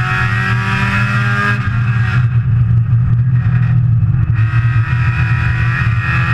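Saturn S-Series four-cylinder race car engine heard from inside the cockpit, running hard under power. The driver lifts off the throttle for about two seconds in the middle, then the revs climb again near the end.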